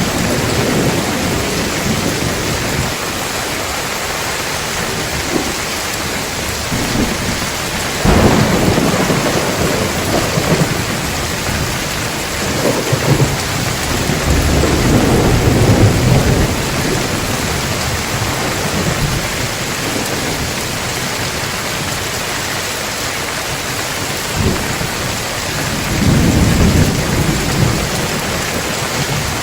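Heavy rain falling steadily, with rolls of thunder rumbling in three times: a sharp onset about a third of the way in, a longer swell around the middle, and another rumble near the end.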